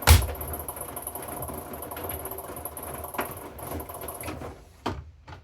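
Washing machine running with a steady mechanical hum and hiss, a sharp knock at the start; the running cuts off about four and a half seconds in, followed by two or three sharp clicks.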